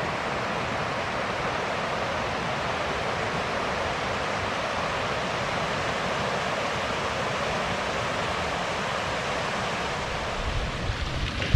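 A dense chorus of many frogs calling at once, their calls merging into a steady, even din. Low rumbles of wind on the microphone come in near the end.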